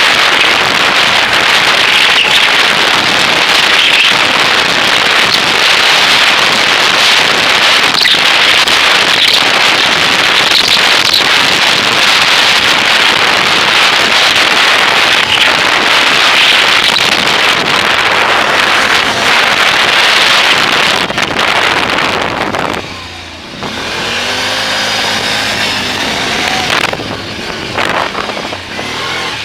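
Loud wind noise buffeting an action camera's microphone while riding a Can-Am at speed. About 23 seconds in the wind drops away and the engine becomes audible, accelerating with a rising pitch.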